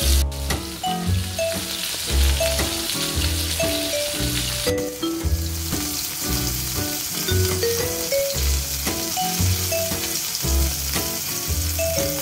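Flour-coated prawns shallow-frying in hot oil in a pan, a steady sizzle that drops out for an instant twice. Background music with a steady beat plays over it.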